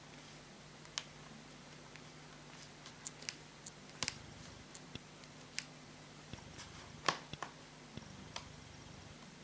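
Scattered light clicks and taps from handling laptop screen parts, irregular and a second or so apart, with a louder click about seven seconds in, over a faint steady low hum.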